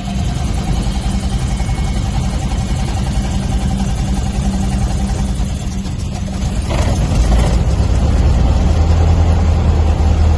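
Cessna 172S's four-cylinder fuel-injected Lycoming engine being started: the starter cranks it with a steady whine for several seconds, then the engine catches about two-thirds of the way through and settles into a louder, steady idle.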